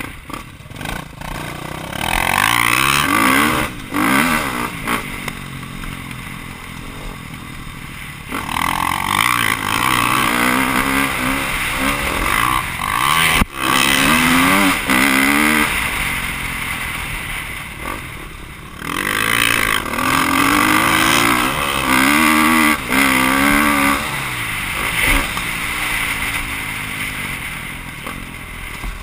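Motocross bike engine heard from on board, revving hard and climbing in pitch through the gears in repeated bursts of throttle, with a few brief drops in between as the throttle is shut.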